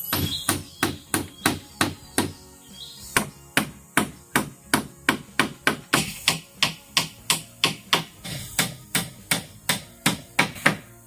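A tool striking bamboo in quick, even blows, about three a second, with a short pause about two seconds in.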